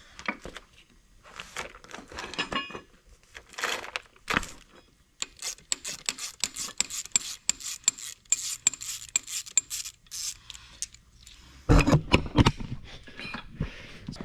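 Used metal brake calipers and parts clinking, scraping and rattling as they are handled and picked through, with a fast run of small clicks in the middle and a few heavier knocks near the end.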